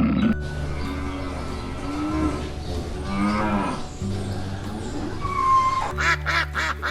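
Cow mooing several times over background music, the longest and loudest moo about three seconds in.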